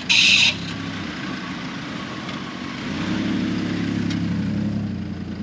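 Vehicle engine idling, then speeding up and running louder for about two seconds from around three seconds in before easing back. Just after the start there is a short, loud, high-pitched burst lasting under half a second.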